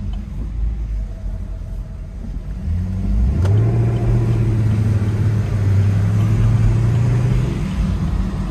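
Chevrolet Camaro SS V8 engine under way: a steady low rumble that, about three seconds in, gets louder and rises in pitch as the car accelerates, holds there, and eases off near the end.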